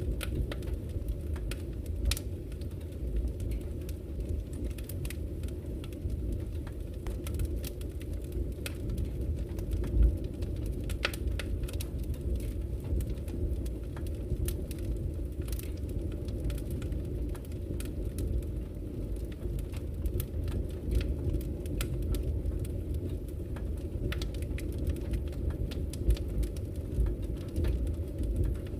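Wood fire burning in a fireplace: a steady low rumble of flames with frequent small crackles and pops, one louder pop about ten seconds in.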